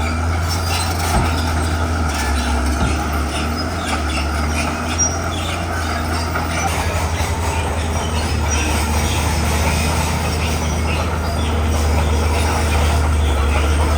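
Komatsu bulldozer working rock: its diesel engine runs under load as a steady low drone while the steel crawler tracks clank, with a few sharp knocks in the first seconds. It grows slightly louder near the end.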